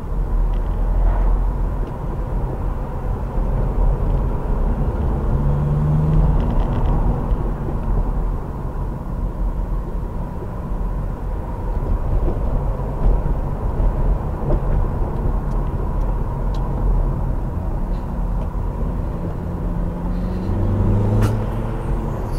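Skoda car's engine and road noise heard from inside the cabin as it climbs a steep hill, a steady low rumble. The engine note rises briefly about five seconds in and again near the end.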